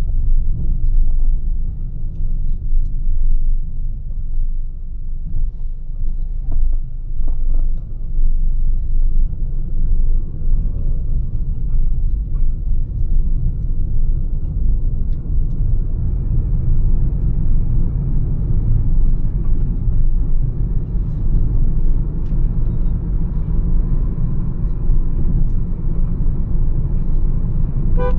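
Mahindra XUV 300 cruising on the highway: a steady, loud low rumble of road and wind noise that grows a little stronger about halfway through.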